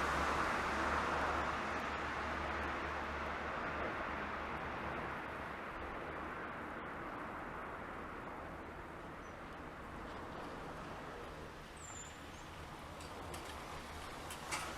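A train's rumble on the tracks fading away as it moves off, dying down over about ten seconds into quieter outdoor ambience, with a short high chirp near the end.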